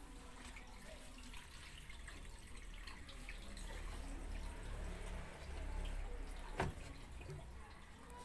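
Water running and dripping, likely draining from a washing machine, with a low rumble that swells in the middle and a sharp click about six and a half seconds in.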